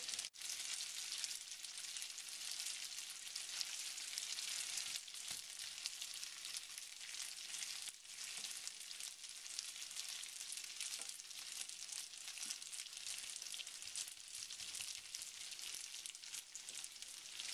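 Spaghetti and bacon frying in hot oil in a frying pan: a steady, crackling sizzle, with a few faint clicks.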